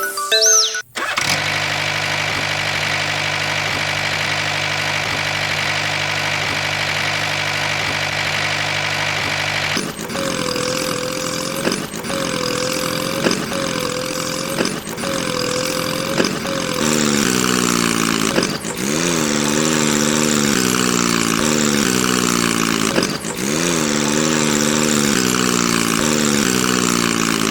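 Small engine of a DIY mini tractor running steadily, then from about ten seconds in its pitch repeatedly rising and falling as it works.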